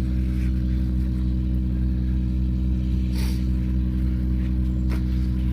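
An engine running steadily at constant speed, a low even drone, with a brief hiss about three seconds in.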